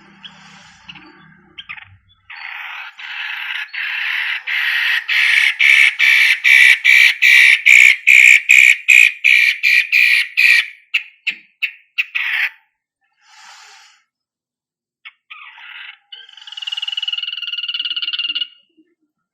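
Long-tailed shrike (cendet) calling: a long run of harsh repeated notes, about two to three a second, that grows louder, then breaks up and fades. A shorter, higher call comes near the end.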